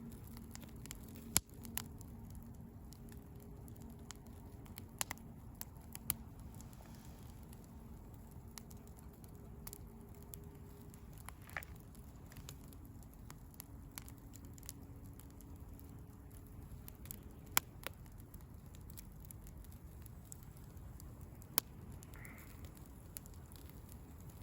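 Firewood burning in a bonfire, crackling with scattered sharp pops over a low steady rumble.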